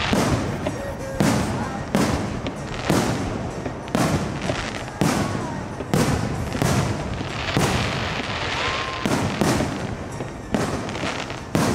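Aerial fireworks shells bursting in quick succession, about one bang a second, each with a sharp report and an echoing tail, with a stretch of dense crackling about two thirds of the way through.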